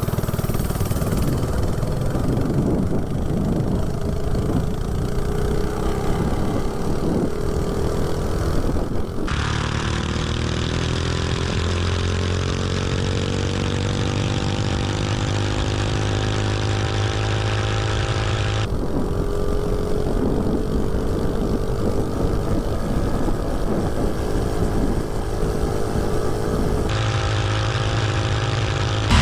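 79cc LCT snowblower single-cylinder engine on a mini bike running hard at full throttle on a top-speed run. Its pitch climbs slowly as the bike gathers speed, and the sound changes abruptly a few times.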